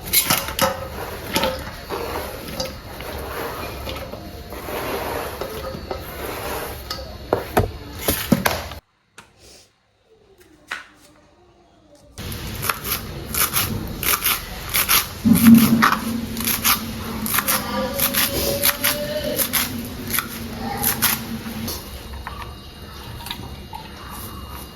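Kitchen food-prep sounds: repeated short clicks, knocks and scrapes of a knife and utensils while ingredients are cut and handled, with a near-silent break of about three seconds around the middle.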